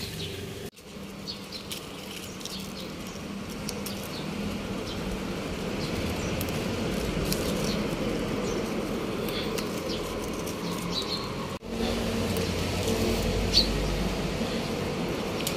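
Leaves rustling and stems snapping as Malabar spinach is picked by hand from the vine. Behind it runs a steady outdoor background hum with scattered faint bird chirps, briefly broken twice.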